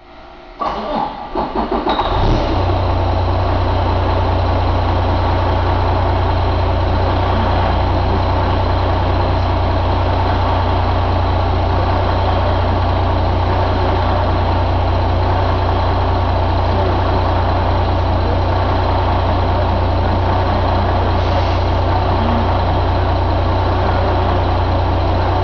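2012 Detroit DD15 inline-six diesel engine cranking on the starter for about two seconds, catching, then idling steadily.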